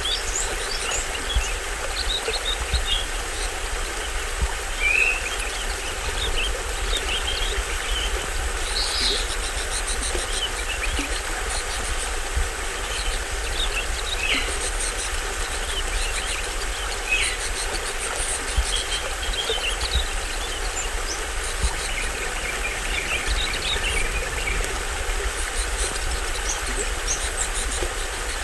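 Small stream waterfall running steadily with a low rumble, and forest birds giving many short chirps and calls over it.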